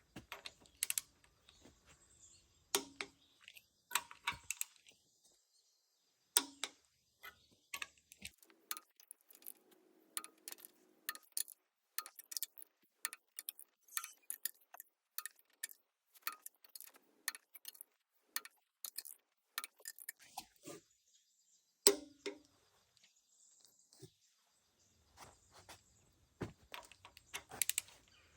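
Irregular sharp metallic clicks, clinks and knocks of hand tools and engine parts being handled, dozens of them in quick succession, a few louder strikes ringing briefly.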